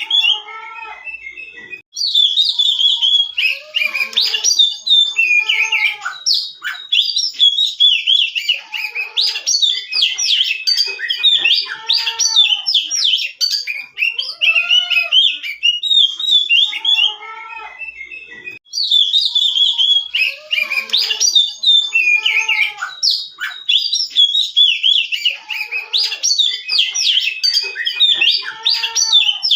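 Oriental magpie-robin (kacer) song played as a looped recording: varied whistles, arched notes, chirps and fast trills in a dense stream. The same run of phrases repeats about every 17 seconds, with a short break about two seconds in and again about two-thirds of the way through.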